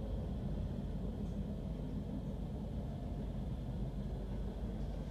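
Steady low rumble of an electric passenger train heard from inside the carriage as it pulls out of a station, alongside a freight train of open wagons.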